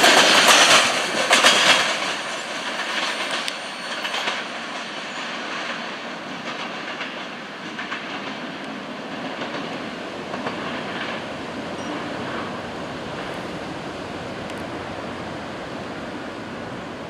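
Freight train cars rolling past, their wheels clacking over the rail joints. The sound is loudest in the first two seconds, then fades to a steady, lower rumble as the train moves off.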